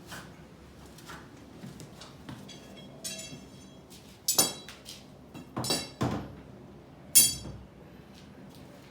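Hard metal objects clanking together several times, each strike ringing briefly. There are two or three strikes in the middle and the loudest comes near the end.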